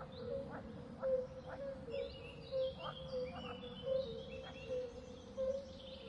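Birds chirping outdoors, with many short high notes from about two seconds in, over a steady low hum that carries a soft short call roughly once a second.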